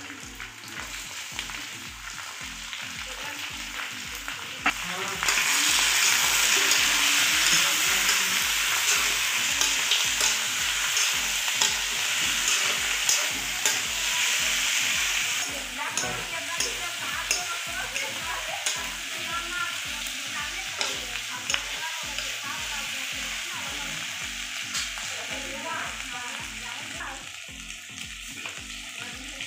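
Raw chicken pieces and onions sizzling as they fry in oil in a metal kadai, stirred with scraping, clicking strokes against the pan. The sizzle grows louder about five seconds in, then eases back after about fifteen seconds.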